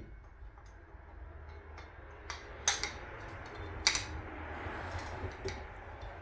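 Metal outboard-motor parts clinking and knocking as they are handled, with a few sharp clicks about two and a half and four seconds in.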